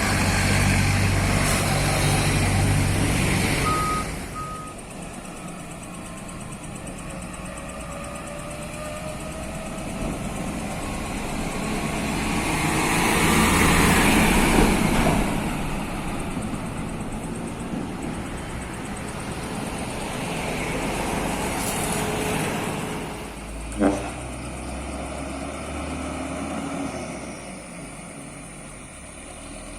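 Road vehicles passing one after another, the engine and road noise swelling and fading, loudest at the start and again about halfway through. Two short high beeps sound about four seconds in, and a single sharp knock comes near the end.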